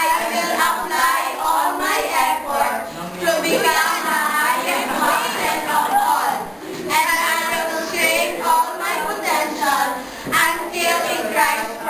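A chorus of young voices performing together in unison, with wavering pitch, and a short break about two-thirds of the way through.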